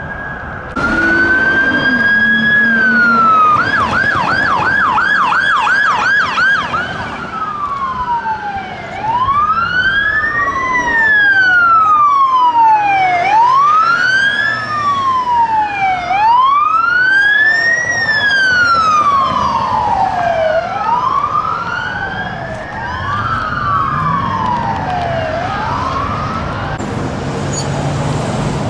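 Electronic sirens on Sacramento County Sheriff's K-9 patrol cars responding. A tone rises and holds, then switches to a fast yelp for a few seconds, then to a slow wail rising and falling about every three seconds. Later a second siren's wail overlaps the first.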